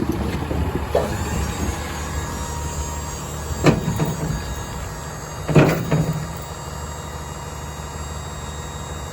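A truck's engine running steadily, with two sharp clanks about two seconds apart.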